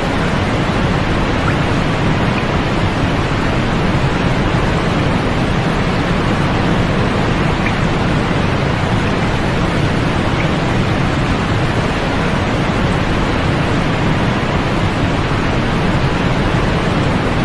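Steady sleep-aid white noise: an even, unchanging hiss, fuller in the low end than at the top.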